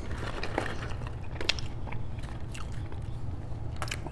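Close-miked chewing and wet mouth sounds of someone eating fried chicken fingers and crinkle-cut fries, with a few short sharp clicks scattered through, over a steady low hum.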